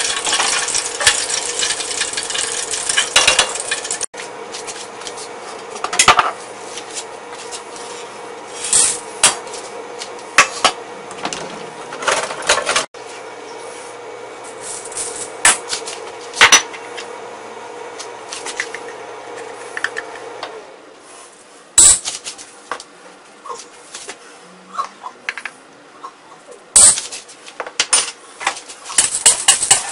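Hot oil crackling around chicken wings deep-frying in a pot, then dried red chili pieces and Sichuan peppercorns toasting in a dry steel wok: scattered ticks and clinks over a steady background hum. Near the end, a metal spatula scrapes and tosses the spices against the wok.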